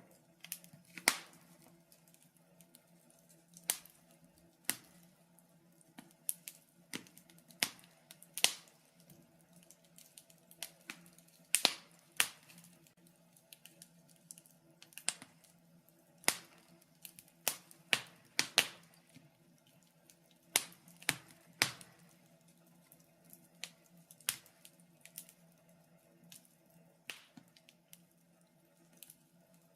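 Wood fire burning in a fireplace, crackling with irregular sharp pops and snaps, one or two a second, over a faint steady hum.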